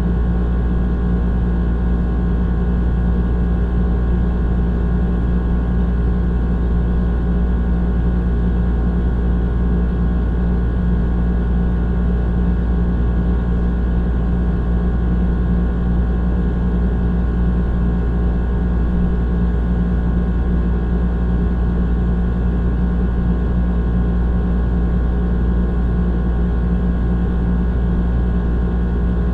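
Old air conditioner running with a steady deep hum and drone, several fixed tones sounding over it and no change in level.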